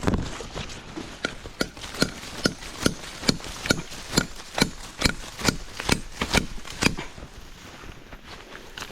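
A steady run of sharp knocks, about two and a half a second, lasting some six seconds and then stopping.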